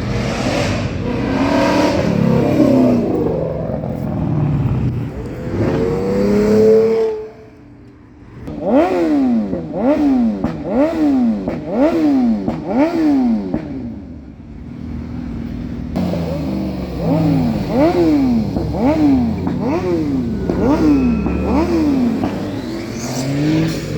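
A car engine revved over and over, about three quick revs every two seconds, each one rising in pitch and dropping straight back. There are two runs of these revs, with lower, steadier engine running before and between them.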